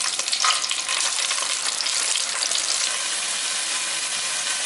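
Pieces of raw chicken breast sizzling in hot oil in an enamelled cast-iron pot, a steady frying hiss with a few crackles near the start.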